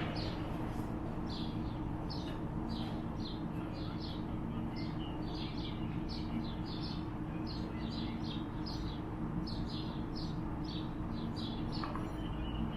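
Small birds chirping, a quick run of short, high, falling notes about two or three a second, over a steady low hum.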